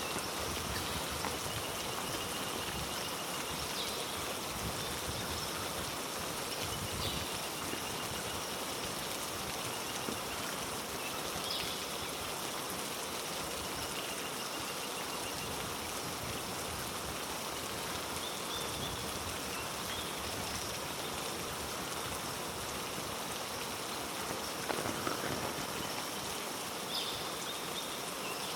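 Heavy rain falling steadily on rainforest foliage, an even hiss throughout, with a few faint, short, high-pitched calls now and then.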